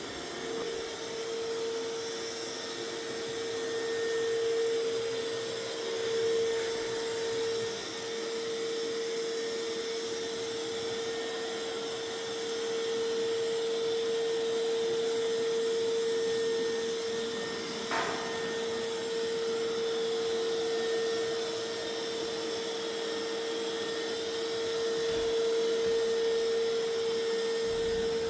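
Mova Z60 robot vacuum-mop running: a steady motor whine over a constant hiss, with one short tick about 18 seconds in.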